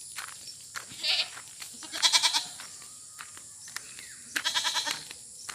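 Goat bleating: two quavering calls about two and four and a half seconds in, with a shorter, higher-pitched call about a second in.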